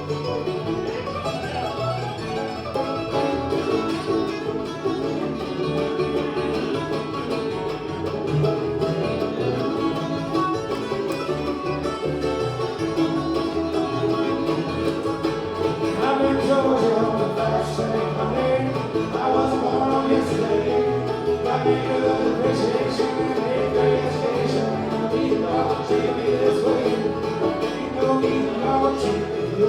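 Bluegrass band playing live: a dense, steady mix of acoustic string instruments.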